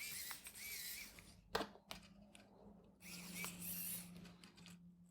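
Faint scraping and rustling of small parts and wires being handled at a workbench, with a sharp click about a second and a half in and a few lighter ticks.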